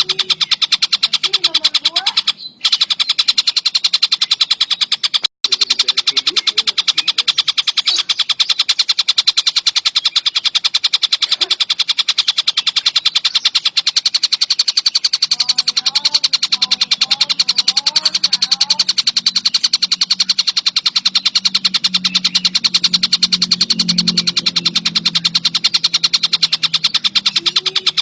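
Tengkek buto (collared kingfisher) calling: a loud, fast rattling run of sharp repeated notes that goes on almost without pause, broken by two very brief gaps in the first few seconds.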